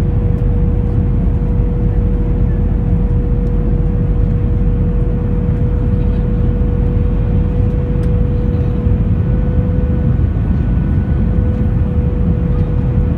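Steady cabin noise inside an Airbus A321 airliner: a dense low rumble of engines and airflow with a constant whine.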